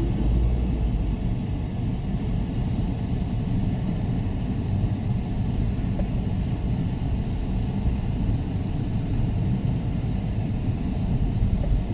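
Steady low rumbling noise of sea surf and wind on the microphone, with no distinct breaks or separate events.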